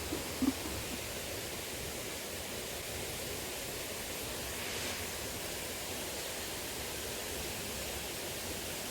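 Steady rushing of a small river's flowing water, with a short knock about half a second in.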